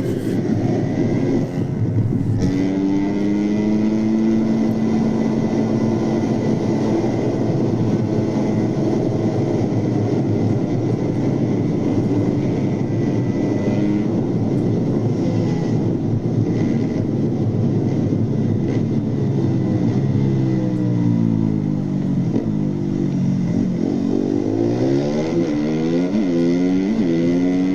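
Motorcycle engine running hard at a steady pitch, then revving up and dropping back several times in quick succession near the end as the rider shifts quickly up through the gears.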